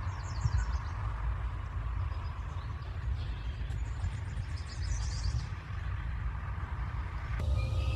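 Outdoor ambience with a steady low rumble, and a small songbird singing quick trills twice: briefly about a second in, and longer around four to five seconds in.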